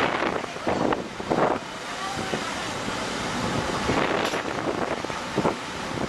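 Wind buffeting the microphone over a steady rushing noise, with a few brief louder gusts in the first second and a half.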